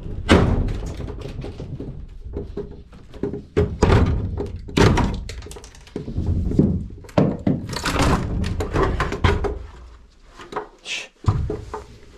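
Repeated knocks and bangs of uneven strength as an old hinged fitting is wrenched and knocked off its hinges.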